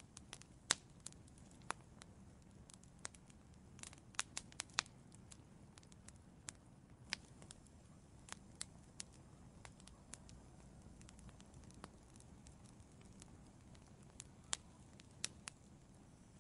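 Wood fire in an outdoor fireplace crackling: irregular sharp pops and snaps, a quick cluster of them about four seconds in, over a faint low rumble.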